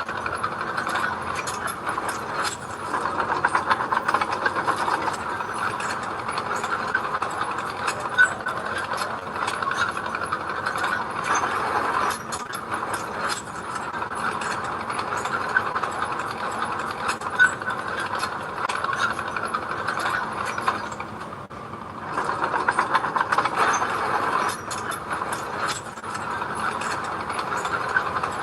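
Bulldozer working, its diesel engine running steadily under load with a constant metallic clatter from the tracks. The engine swells louder a few seconds in, dips briefly about three quarters of the way through, then swells again.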